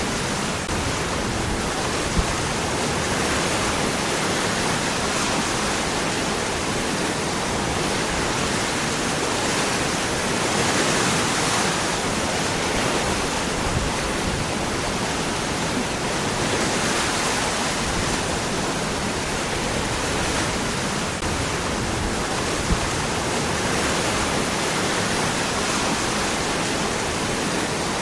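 Waterfall: water falling and running over rocks, a steady, even rush.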